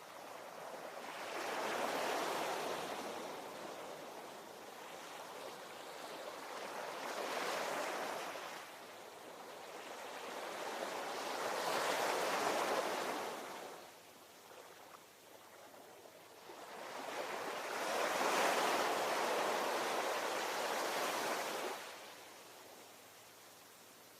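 Ocean surf: waves breaking and washing in, rising and falling in four slow swells of rushing water several seconds apart, with a quieter lull near the end.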